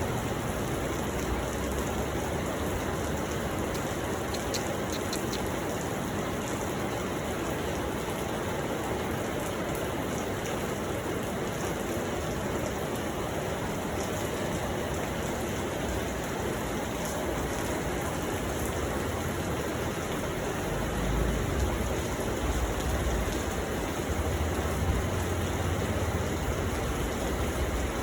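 Steady rain falling, an even hiss of drops on surfaces. A low rumble grows under it about three-quarters of the way through.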